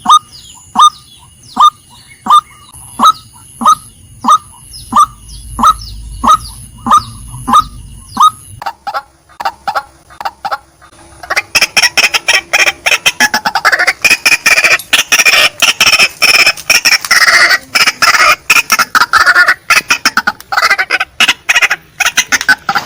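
Female white-breasted waterhen calling. First comes a steady series of sharp, evenly spaced notes, about one and a half a second. After a short pause about eleven seconds in, a loud, fast chattering run of calls follows.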